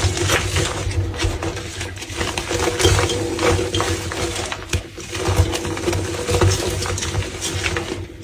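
Crumbly, brittle material being crushed, giving a dense run of crunching and crackling that eases off briefly a few times, over a steady low hum.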